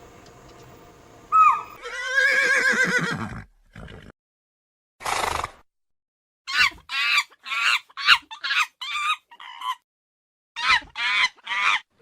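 A horse whinnies, a long call falling in pitch with a shuddering tremble. A short noisy burst follows, then runs of short, quick, high-pitched animal calls in clipped bursts.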